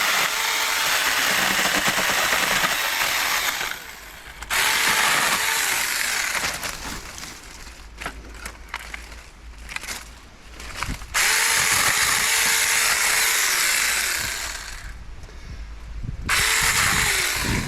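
Battery-powered 6-inch mini chainsaw cutting through sapling branches in four runs. Each run starts with a rising motor whine that levels off into the chain's cutting noise. Sharp clicks and cracks come in the pauses between cuts.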